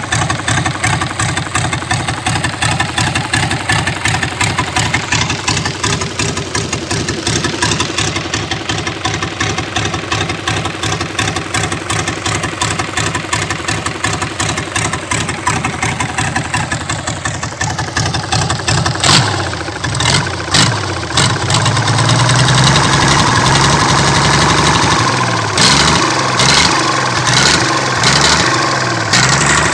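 Nissan Diesel FE6 12-valve inline-six diesel engine running: a steady, evenly pulsing idle for most of the first two-thirds, then revved in several short blips, held at higher speed for a few seconds, blipped again and let back down near the end.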